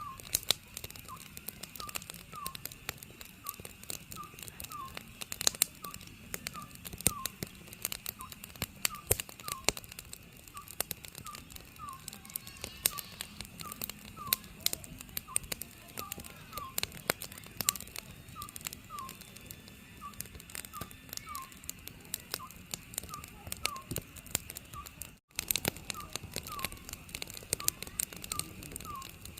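Oriental scops owl calling over and over, short pitched hoots coming in pairs, over a wood fire crackling and popping with sharp snaps. Both sounds break off for an instant about 25 seconds in.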